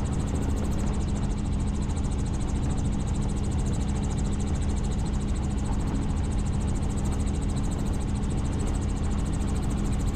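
Helicopter in flight: a steady drone of engine and rotor with a constant low hum and a fast, even pulsing in the high range.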